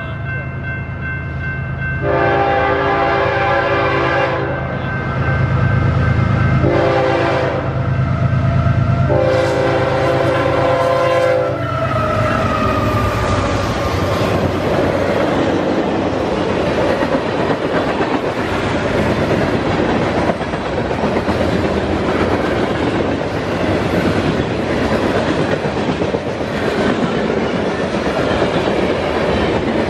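Diesel freight locomotive blowing three long blasts on its air horn over the rumble of its engine, the last blast dropping in pitch as it goes by. Then the train's wheels roll steadily over the rails as the cars pass.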